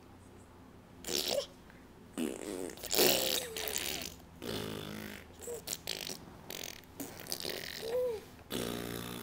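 Lip raspberries ("blowing bubbles") blown in about five separate buzzy bursts, each a second or two long.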